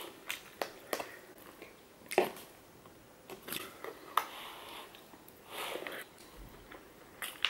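Close-miked chewing of chow mein noodles, with scattered light clicks and scrapes of a metal fork against an aluminium foil takeaway tray.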